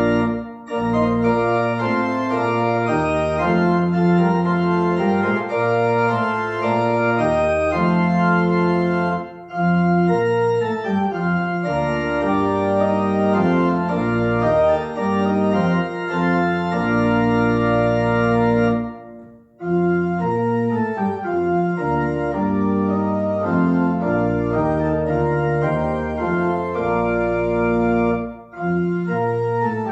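Organ postlude: sustained chords and moving lines played on an organ, pausing briefly between phrases a few times.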